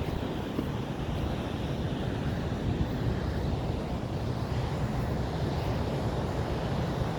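Steady low rumbling rush of wind buffeting the microphone over the sound of the sea.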